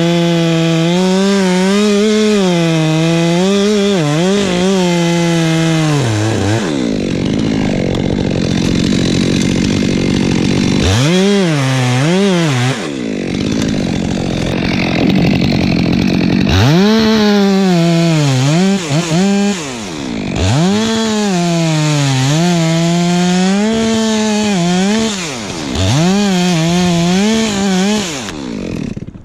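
Gas chainsaw at high revs cutting into pine, its pitch sagging and wavering under load. It drops back toward idle for a few seconds twice in the first half and briefly twice later, revving back up each time.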